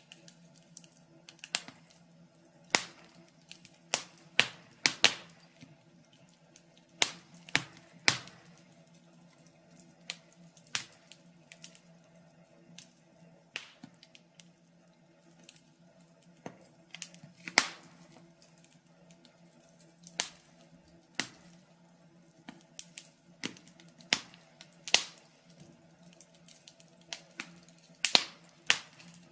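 Wood log fire crackling: irregular sharp pops and snaps, one or two a second, a few of them much louder than the rest.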